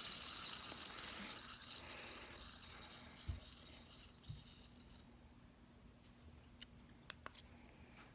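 Light-up strobe fidget spinner spinning, its ball bearing giving a high, rattling whir that weakens as it slows and dies away about five seconds in. A few faint clicks follow.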